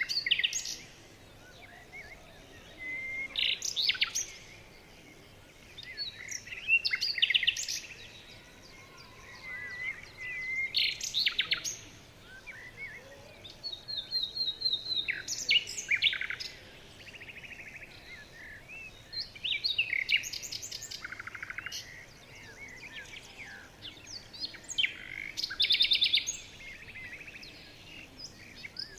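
Songbirds singing, with short, rapid trilled and chirping phrases repeating every two to three seconds.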